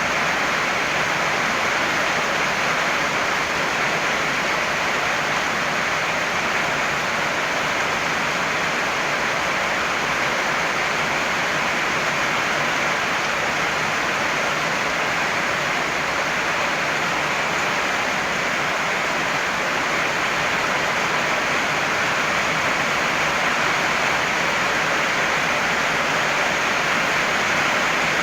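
Heavy rain pouring down, a dense, steady hiss that does not change.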